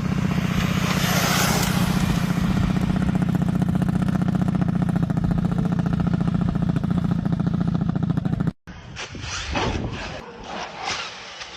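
A motor running steadily with a low, even hum. It cuts off abruptly about eight and a half seconds in, and a few quieter scattered knocks and rustles follow.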